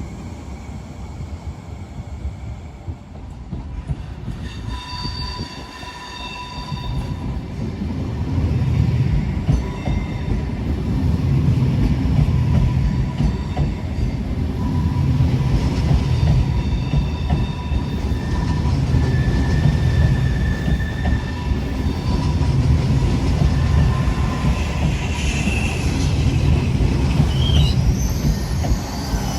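A train rolling past on the rails: a low rumble builds about a quarter of the way in and then holds, pulsing evenly, while thin high-pitched wheel squeals come and go, with a wavering squeal near the end.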